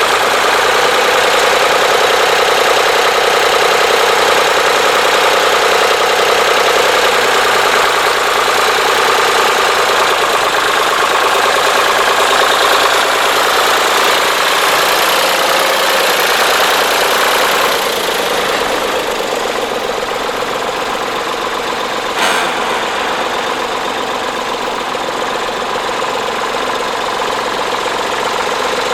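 Tractor engine running steadily. It eases off a little about two-thirds of the way through, and there is one short click a few seconds later.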